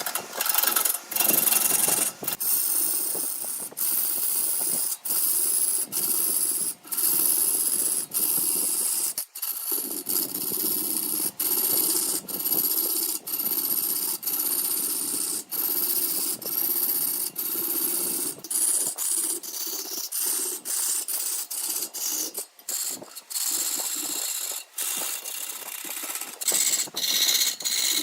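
A spinning wood lathe with a tool scraping against the turning wood: a steady rasping hiss, broken by short gaps about once a second.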